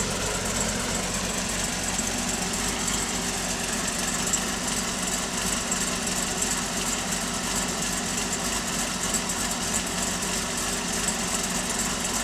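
Pontiac G8 GT's 6.0-litre V8, fitted with an aftermarket TSP camshaft and a Magnuson TVS1900 roots-type supercharger, idling steadily at a low 650 rpm through the stock manifolds and exhaust, with the uneven lope of the big cam.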